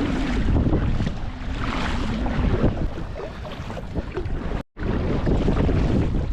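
Wind buffeting the microphone over water splashing and lapping around a kayak. The sound cuts out for an instant about two-thirds of the way in.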